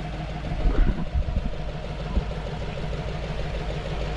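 GAZ-66 truck's V8 petrol engine running steadily at low revs, with a few low thumps about a second in and another near two seconds in.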